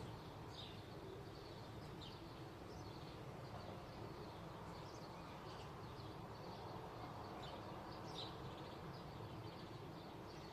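Faint, short bird chirps at irregular intervals, roughly one every second or two, the clearest near the end, over a steady low outdoor background hum.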